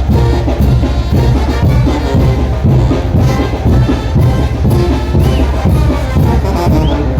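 Mexican banda (brass band) playing a son de chinelo: trumpets and trombones over a steady beat of drum and cymbal strikes, loud and continuous.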